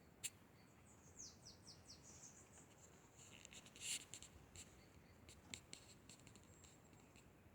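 A small bird calling faintly: a quick run of four or five high notes, each falling in pitch, about a second in, followed by scattered high chirps and clicks.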